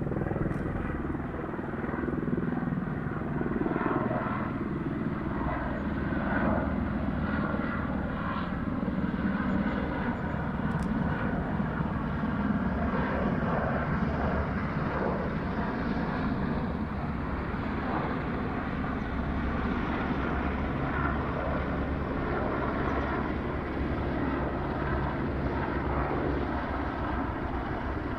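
Several military helicopters flying overhead: a steady drone of rotors and turbine engines that swells a little in the first half and then holds.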